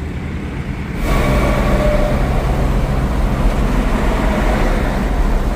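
Heavy vehicle engine and road noise, a steady loud rumble that jumps up about a second in and holds, with a faint whine at first.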